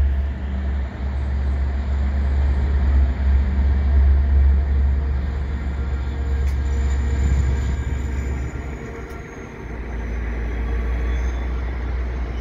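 EMD F59PH diesel locomotive running as it passes hauling multilevel commuter coaches: a deep engine rumble with a high whine that falls in pitch as it goes by. From about the ninth second the sound is quieter as the coaches roll past.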